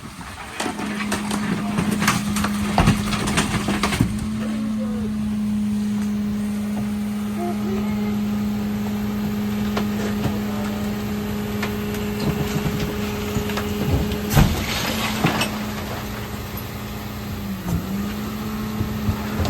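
Mercedes Econic refuse truck running with a steady low hum. Knocks and rattles come in the first few seconds and again about 14 to 15 seconds in.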